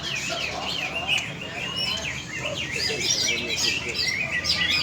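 Several caged green leafbirds (cucak ijo) singing at once in a contest, a dense overlapping chorus of rapid whistled chirps and trills.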